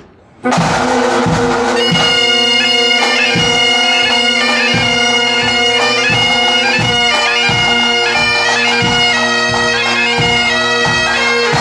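Pipe band striking in and playing a march: steady bagpipe drones sound under evenly spaced drum beats, and the chanters take up the tune about two seconds in.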